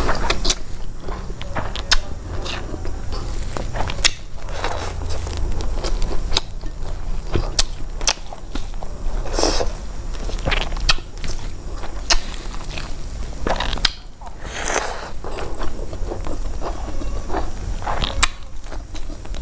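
Close-miked eating with the hands: chewing and crunching with wet mouth clicks, in many short irregular bursts, as rice, fish and paknam are picked up and eaten.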